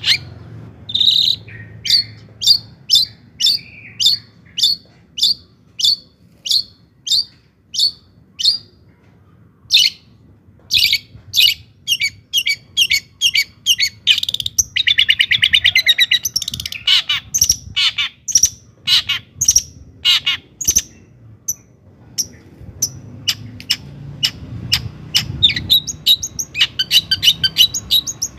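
Long-tailed shrike (cendet) singing: a run of sharp, evenly spaced high notes about two a second, then faster chattering with a brief rapid trill, and scattered notes and chatter again near the end.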